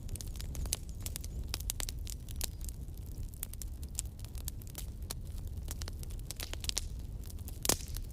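Wood campfire burning and crackling, with frequent sharp pops over a low steady rumble of flame, and one louder pop near the end.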